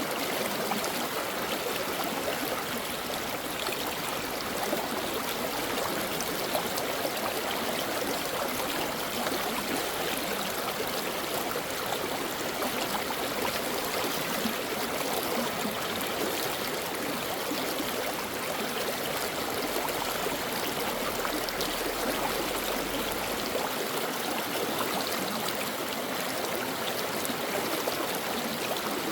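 A mountain stream flowing over rocks: a steady rush of running water with close trickling and splashing.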